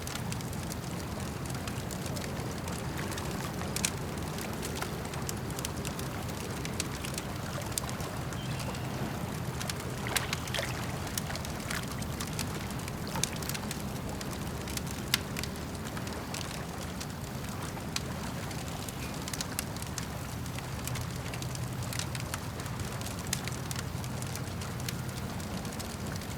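Wood campfire crackling, with sharp irregular pops and snaps over a steady low rushing of water lapping at a lake shore.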